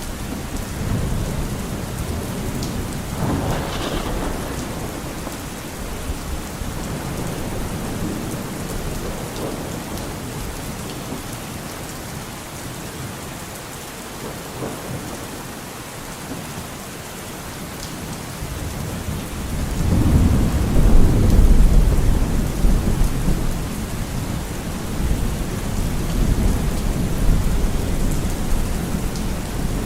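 Steady rain with rolling thunder: a thunderclap a few seconds in, then a long low rumble of thunder that swells about two-thirds of the way through and slowly dies away under the rain.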